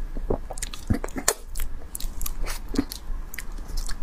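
A person eating soft durian flesh close to the microphone: wet, sticky mouth smacks and chewing, with many short irregular clicks.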